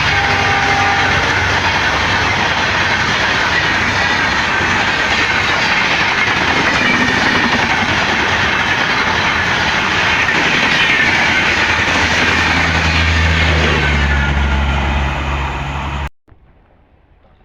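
Diesel-hauled express train passing at speed: a loud, steady rush of wheels on rail with clickety-clack over the low hum of an EMD diesel locomotive, which grows stronger near the end before the sound cuts off abruptly.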